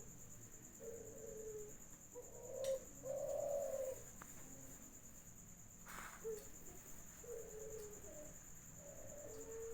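Doves cooing: a run of short low coo phrases, then one long drawn-out coo that starts near the end.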